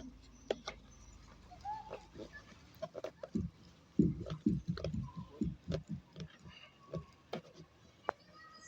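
Rear shock absorber of a VAZ 2109 knocking as it is worked up and down: scattered clicks, then a quick run of dull knocks in the middle, with a few short squeaks. The owner takes the knock for a fault in the shock absorber.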